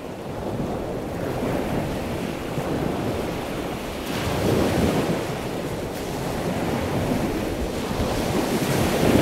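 Ocean surf: a steady rush of breaking waves that swells about four and a half seconds in and again near the end.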